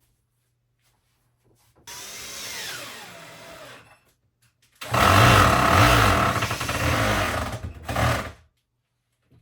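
Electric drill-driver run in two bursts. A fainter one of about two seconds has a whine that falls in pitch, then a louder one of about three and a half seconds stops abruptly.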